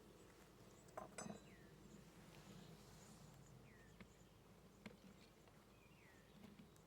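Faint, steady hum of a honeybee colony at an open hive, with a few light clicks and knocks from handling the hive parts and a few short, falling chirps.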